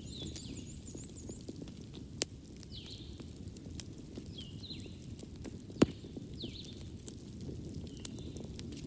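Wood fire in a fireplace crackling over a low steady rumble, with a few sharp pops, the loudest about six seconds in. Short high chirps recur every second or so.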